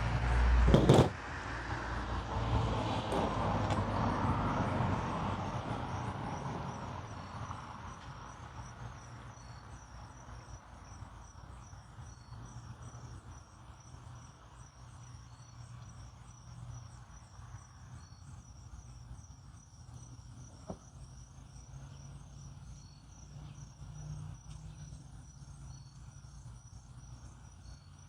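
A sharp knock about a second in, followed by several seconds of rustling and handling noise that fades away, leaving a faint low hum and a high, rapid, steady chirping of crickets.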